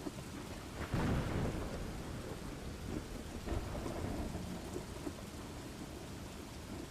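Steady rain falling, with a low rumble of thunder swelling up about a second in and fading away.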